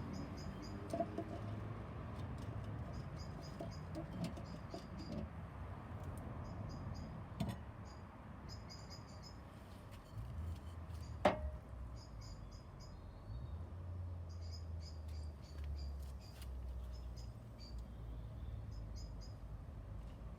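Repeated short high chirps in quick groups of three or four, recurring every second or two over a low rumble, with a sharp click about eleven seconds in.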